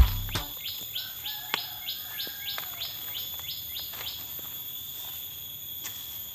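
A bird calls a run of about a dozen quick descending chirps, roughly three a second, over a steady high-pitched insect drone. A loud thump comes right at the start.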